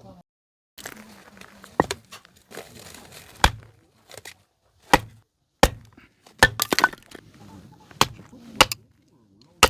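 Firewood being split: about ten sharp strikes on wood, roughly a second apart, some with a quick double crack as the wood gives.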